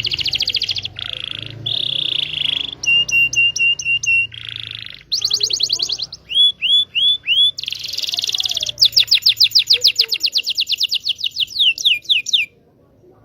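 Canary of the local Indonesian type singing a long, varied lure song of rapid trills, buzzy rolls and runs of repeated sweeping chirps. The song cuts off abruptly near the end.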